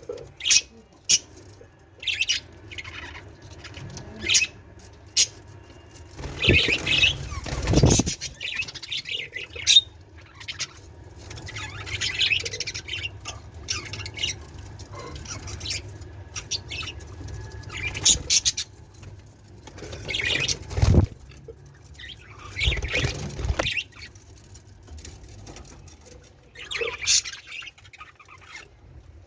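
Pet budgerigars chirping in many short, sharp calls, with a few longer, louder flurries of noise.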